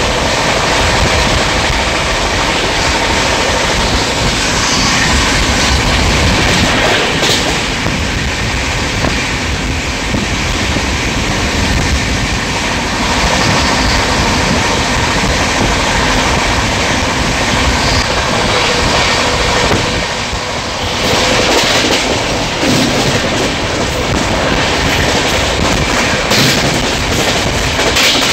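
Passenger train running at speed, heard from inside the carriage: a steady rumble and rush of noise, with the wheels clicking now and then over the rail joints.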